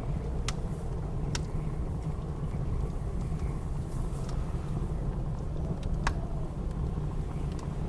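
Wood fire crackling with a few sharp pops over the steady low rush of blizzard wind.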